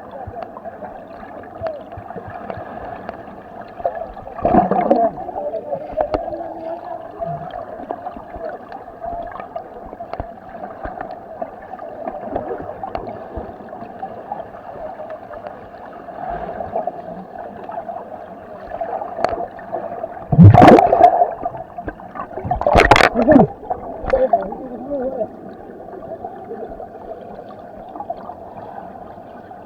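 Water gurgling and sloshing as people swim and dive, over a steady hum, with a loud splash about four seconds in and two more about twenty seconds in.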